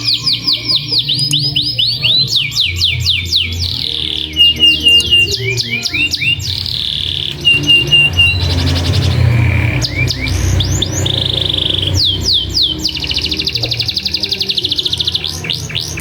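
Domestic canary singing a long, continuous song of rapid rolls: fast runs of falling chirp notes, many per second, broken by a few short flat repeated notes.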